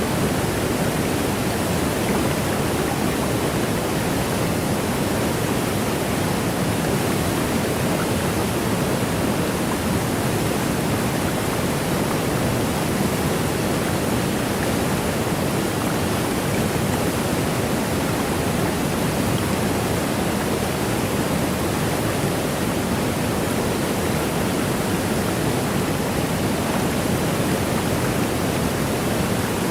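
Waterfall rushing, a steady, unchanging hiss of falling water with most of its weight in the low-middle range.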